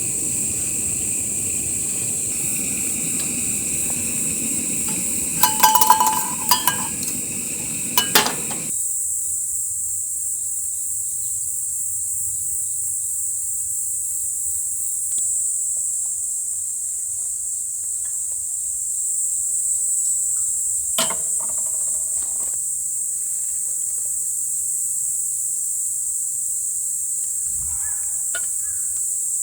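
Steady high-pitched chirring of autumn insects, with a few quick clinks of tableware about six to eight seconds in and a single sharp knock around twenty-one seconds in.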